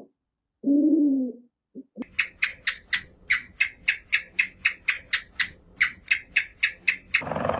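Animal calls: a low hooting call about a second in, then a fast series of short high chirps, about four or five a second, that stops abruptly near the end.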